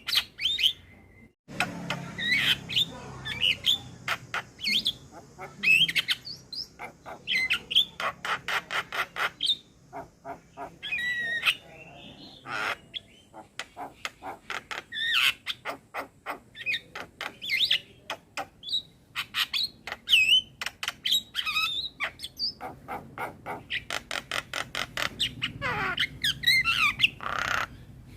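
Male Javan myna (jalak kebo) singing a full, varied song: fast runs of dry clicking chatter mixed with squawks and short whistled notes, with a short pause about a second in.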